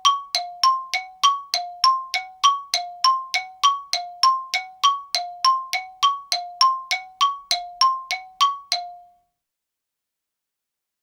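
Xylophone bars struck in a quick, even alternation of two notes, a lower and a higher one, about three strokes a second. Each note rings briefly. The run stops about nine seconds in.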